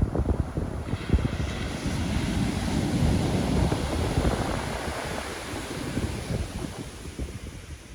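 Pacific Ocean surf: a wave breaks and washes in with a swelling hiss that fades away after a few seconds. Wind buffets the microphone with a gusty rumble throughout.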